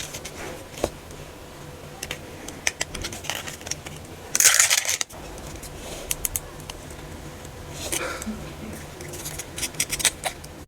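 Small plastic toy packaging being handled and opened: scattered light clicks and crinkles, with one louder crinkling rustle of plastic wrapping about four and a half seconds in.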